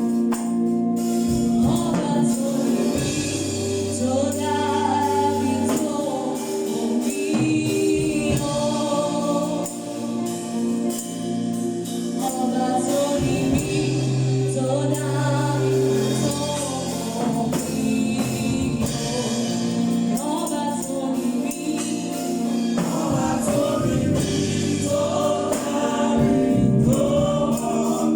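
Gospel choir singing with instrumental backing, a steady bass line and tambourine.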